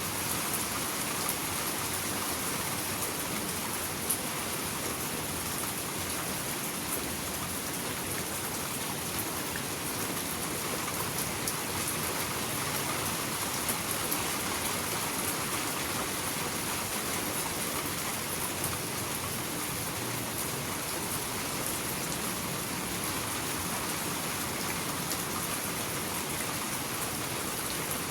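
Steady rain falling, a continuous hiss with scattered drops tapping on surfaces.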